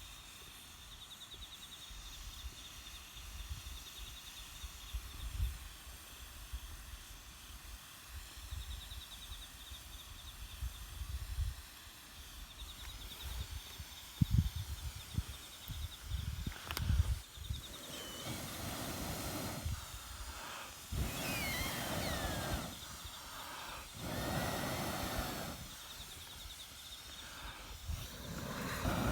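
Campfire being fanned with breaths blown through a fire-blowing pipe: in the second half, about three hissing puffs of roughly two seconds each, with a few sharp crackles. Before that, only low rumbling and a faint steady high whine.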